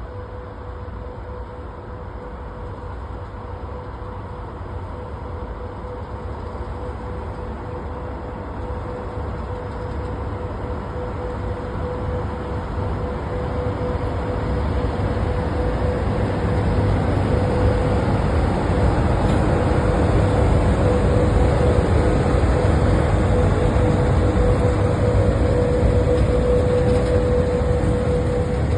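A train approaching, its rumble growing steadily louder for about fifteen seconds and then holding, with a steady whine running through it.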